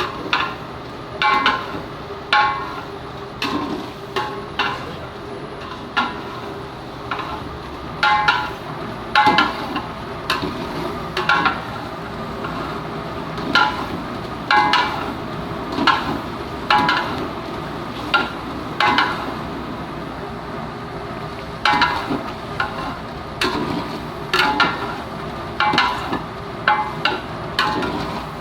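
A metal spoon stirring and clanking against a metal pot as chicken pieces are fried in oil, with a steady sizzle underneath; the ringing clanks come irregularly, about one or two a second.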